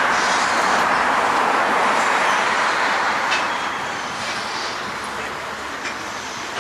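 Freight train hopper wagons rolling past on the rails: a steady wheel-on-rail noise with a few faint clicks, slowly fading over the last few seconds.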